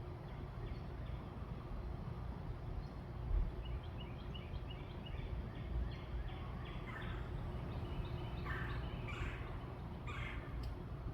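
Birds calling: a quick run of short high notes in the middle, then several louder, lower calls near the end, over a steady low rumble.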